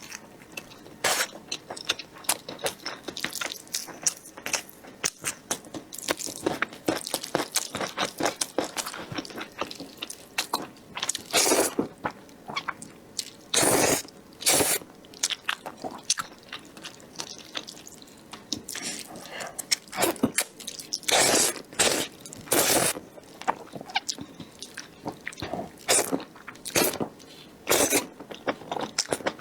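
Close-miked eating: a person chewing and crunching food, with many short wet clicks and smacks and several longer noisy sounds of about half a second, the loudest of them around the middle and in the second half.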